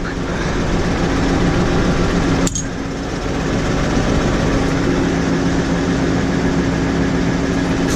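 New Holland 6080 tractor engine idling steadily, with a single sharp knock about two and a half seconds in.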